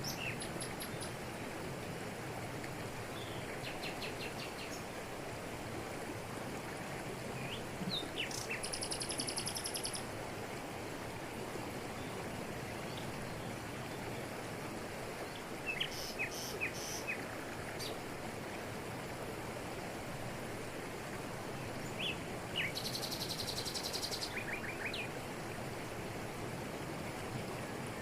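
Steady rush of a waterfall over rocks, with birds calling over it every few seconds: short chirps and a few rapid, buzzy trills lasting a second or two.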